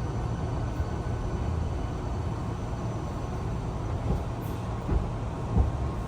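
Steady low rumble inside a Hankyu Kyoto Line train as it comes into a station, with a few knocks in the last two seconds.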